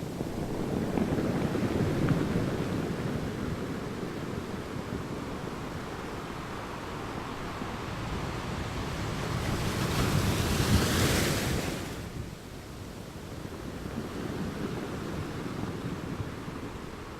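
Sea waves surging and washing in, with wind on the microphone. One wave swells about two seconds in and a louder, hissier one breaks about ten seconds in, falling away sharply a second or two later.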